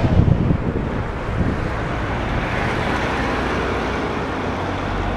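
Steady wind buffeting the microphone over city road-traffic noise, a low rumble with a broad hiss that swells slightly midway.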